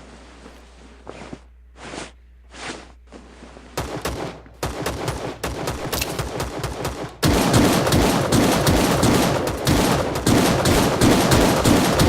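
Gunfire in a shooter video game: a few scattered muffled shots, sharper shots from about four seconds in, then heavy rapid automatic fire, much louder, from about seven seconds in.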